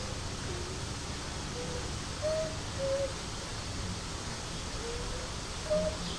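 A bird calling outdoors: short, clear whistled notes, about one a second at irregular spacing, over a steady low rumble.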